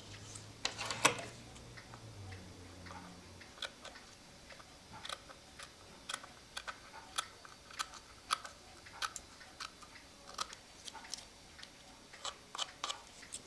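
Scissors snipping away excess bellows paper: a series of short, sharp clicks at uneven spacing, the loudest about a second in, then a steady run of snips from about five seconds in.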